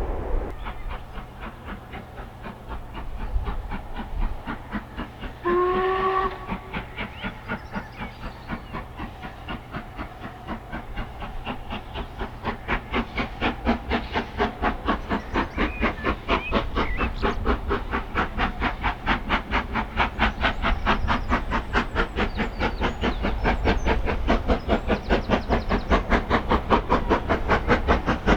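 LMS Black 5 two-cylinder 4-6-0 steam locomotive working hard with a quick, even exhaust beat that grows louder as it approaches. It gives one short whistle blast about five seconds in.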